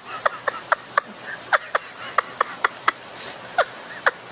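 A parrot giving a quick series of short, sharp chirps, about a dozen in four seconds, each dropping in pitch.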